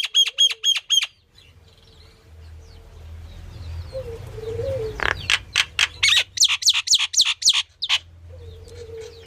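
A myna calling in rapid runs of sharp repeated notes, about five a second. A quick run opens the clip, a few quieter seconds follow, and a longer, louder run starts about five seconds in.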